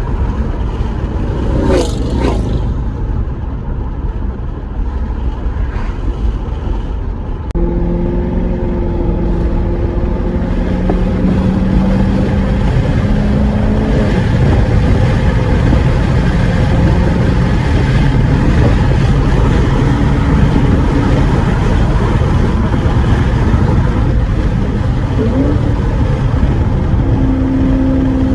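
Heavy wind buffeting on the microphone over a 2014 Corvette C7's 6.2-litre V8. From about seven seconds in, the engine note comes through, rising in pitch under acceleration and dropping back at gear changes.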